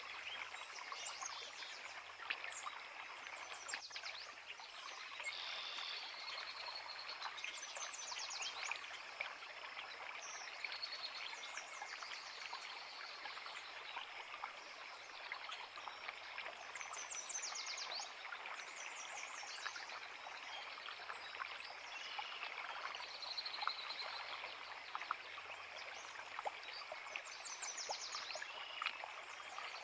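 A woodland creek flowing steadily with a constant rushing and trickling, while songbirds sing short, quick, high phrases every few seconds over it.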